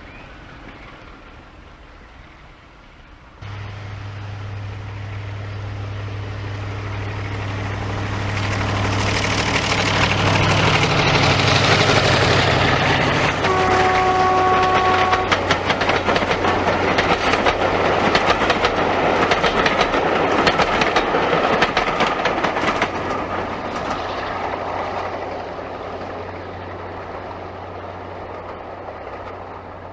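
Diesel locomotive passing: a steady engine hum rises in level, with one short horn blast about halfway through. The wheels then clatter quickly over rail joints as it goes by, and the sound fades toward the end. The sound cuts in suddenly a few seconds in, after a quieter stretch.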